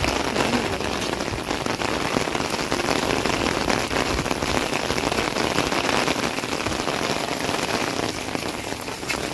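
Heavy rain pattering on an open umbrella overhead and splashing on wet ground and paving: a steady, dense hiss full of fine drop ticks.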